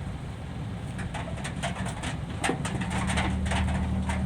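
Diesel truck engine running with a steady low hum that grows louder about three seconds in, with a rapid, irregular patter of light ticks over it.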